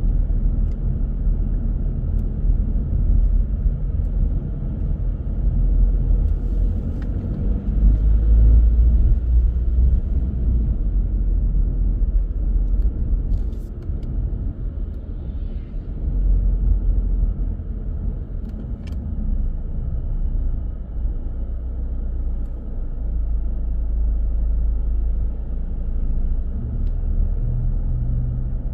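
Car driving on the road: a steady low rumble of engine and tyre noise that swells for a couple of seconds about eight seconds in.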